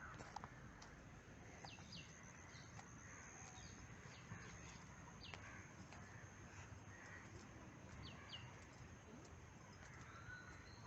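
Faint wild bird calls: short, sharp downward chirps every second or two, over a steady thin high tone and faint outdoor hush.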